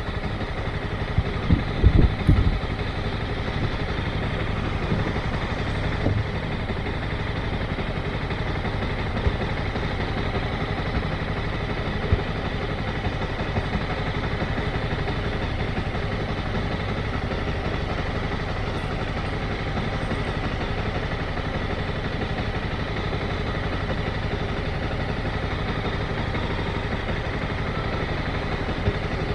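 Motorcycle engine running steadily at low revs, close to idle, with a few short low thumps about two seconds in.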